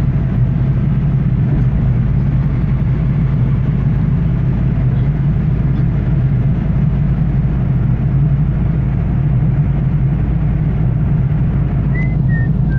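Steady low rumble of a car's engine and tyre noise, heard from inside the cabin while driving on wet roads in the rain.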